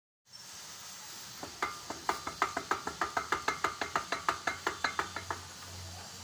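A quick, even run of about twenty sharp, ringing metallic clicks, about five a second, starting about a second and a half in and stopping a little after five seconds. A low steady hum comes up near the end.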